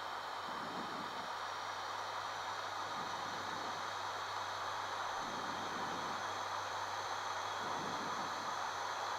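Steady in-flight cockpit noise of an ATR 72-600 twin-turboprop airliner: an even hiss of engine, propeller and airflow noise with a low steady hum and a few faint high whines.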